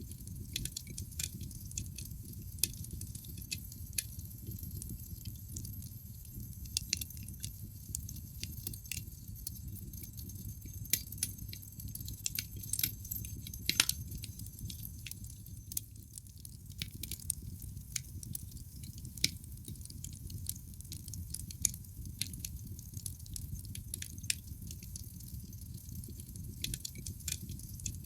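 Wood fire burning in a fireplace, crackling with frequent irregular sharp pops over a low, steady rumble of flame. One louder pop comes about halfway through.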